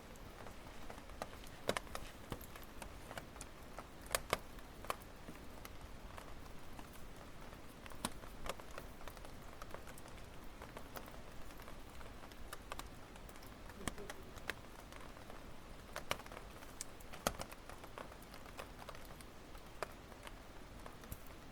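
Wood campfire crackling: irregular sharp pops and snaps over a soft steady hiss, with a few louder pops about four seconds in and again around sixteen to seventeen seconds in.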